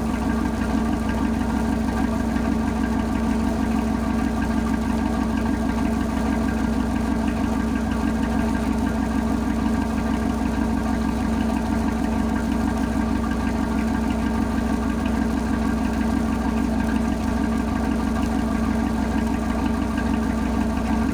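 Tugboat engine running steadily at an even speed, with an unchanging drone.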